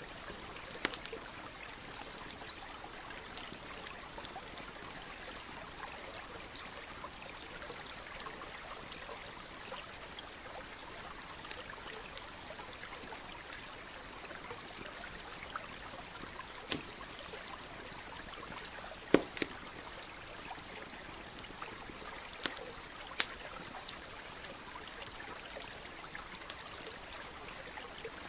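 Campfire crackling, with irregular sharp pops, the loudest about two thirds of the way through, over a stream flowing and trickling steadily.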